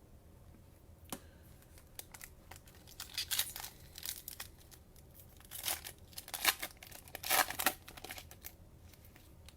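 A plastic cello-pack wrapper of trading cards being torn open and crinkled by hand, in irregular bursts of crackling and rustling that grow louder through the middle and are loudest near the end.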